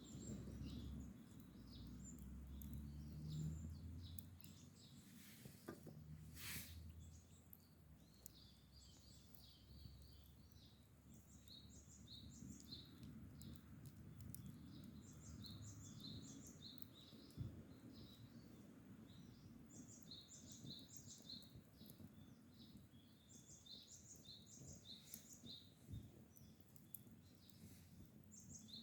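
Faint birdsong: small birds chirping in quick runs of short notes. A low rumble sits under the first few seconds, with a brief rustle about six seconds in.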